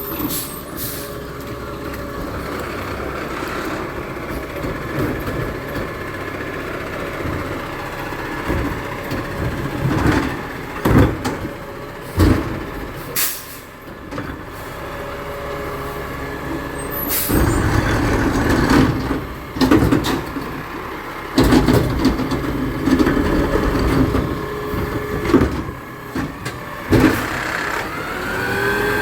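Garbage truck engine running steadily, with sharp clanks and hisses. It grows louder with machinery noise in the second half, and a rising whine comes near the end.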